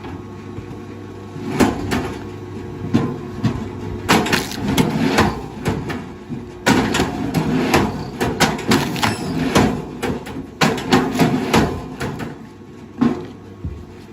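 Irregular wooden knocks and clatter, many sharp strikes in quick, uneven succession: pieces of wood striking one another.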